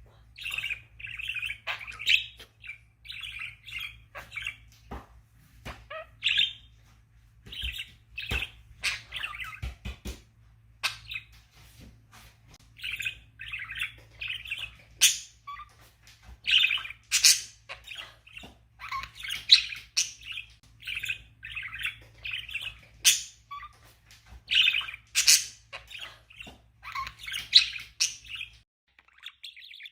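Budgerigar chattering and warbling in quick irregular bursts, with scattered sharp clicks and squeaks. A faint low hum sits underneath and stops near the end.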